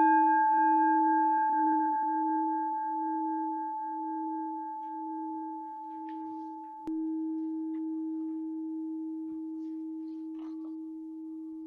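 Meditation chime, a singing bowl, ringing out with a wavering low tone and slowly fading, then struck again about seven seconds in and ringing on. It marks the period of silent meditation.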